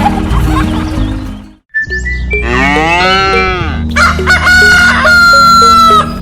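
Two farm-animal calls over background music: a short call that rises and falls in pitch a little after two seconds in, then a longer, louder held call near the end. The music drops out briefly before the first call.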